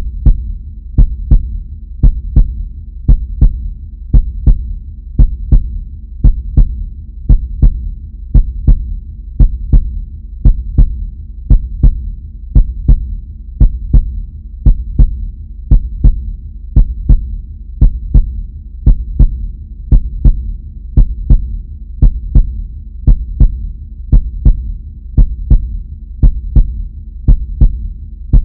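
Heartbeat sound effect: a steady lub-dub, two low thuds close together repeating about once a second, over a continuous low hum.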